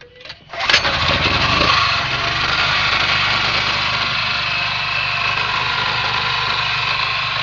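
A small portable generator's engine being pull-started on its newly replaced recoil starter rope. After a brief rope pull it catches under a second in and runs steadily.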